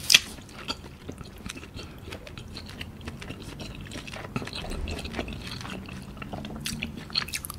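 A person chewing squid close to the microphone: soft wet mouth clicks and smacks, with one sharp click right at the start.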